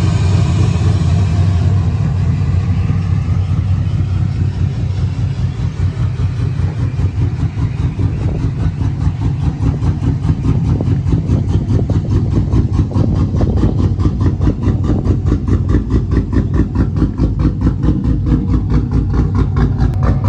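Cammed Chevrolet 5.3 L V8 idling just after start-up, easing down from a fast idle in the first couple of seconds into a choppy, evenly pulsing lope.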